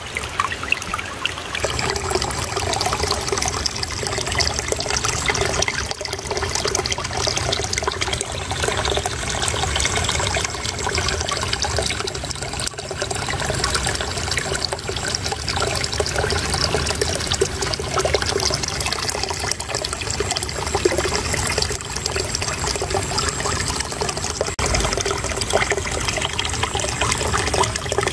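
Water flowing and babbling steadily over stones in a small stream, a continuous trickling rush with many fine splashes.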